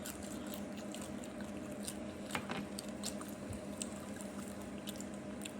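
Scattered small wet mouth clicks and lip smacks from someone tasting hot sauce, over a steady low hum.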